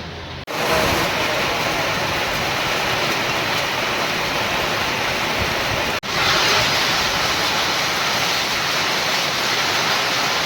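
Heavy rain falling, a dense steady hiss that starts abruptly about half a second in and drops out for an instant at a cut about six seconds in.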